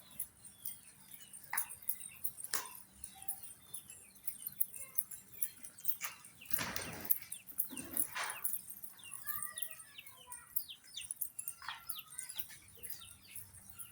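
Pigeon squabs squeaking in many short, high chirps while being crop-fed by a parent, with a brief rustling burst about seven seconds in and another about a second later.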